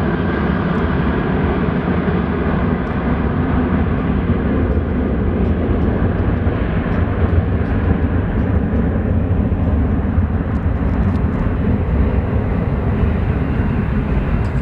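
Airliner's engines running, a loud steady rumble as the aircraft passes.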